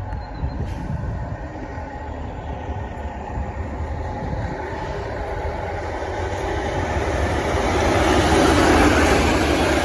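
Diesel locomotive passing through a station, its engine rumble and wheel-on-rail noise building steadily to a peak near the end.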